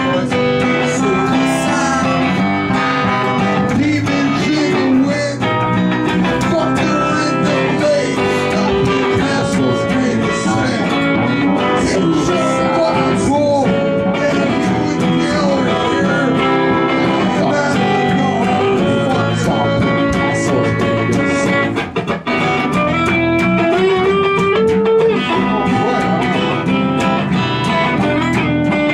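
Live band music carried by guitar, played continuously, with some singing.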